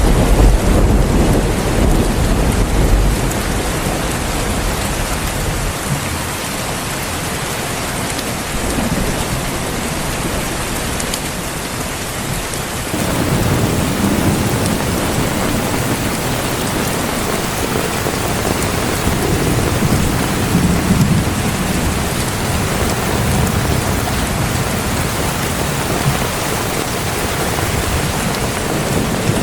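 Heavy rain falling steadily, with a deep roll of thunder at the start that dies away over the first few seconds. About halfway through the rain grows louder and heavier.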